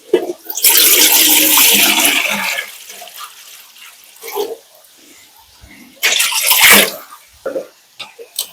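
Water gushing in two spells: a loud one of about two seconds starting about half a second in, and a shorter one about six seconds in.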